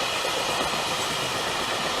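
Train running past on the tracks, a steady rail and wheel noise with faint high steady tones over it.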